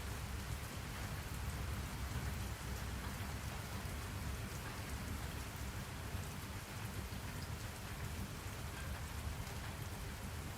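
Steady rain falling, with a low continuous rumble underneath and faint scattered drop taps.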